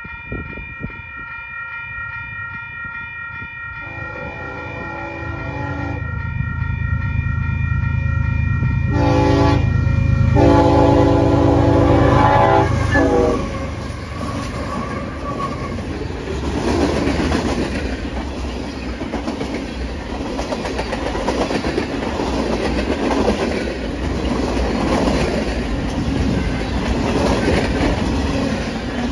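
Railroad grade-crossing bells ringing while a Union Pacific freight train approaches and sounds its diesel horn in several blasts, the last a long one. The lead diesel locomotives pass with a loud low engine drone. Then the freight cars roll over the crossing with a steady rhythmic clickety-clack of wheels on rail joints.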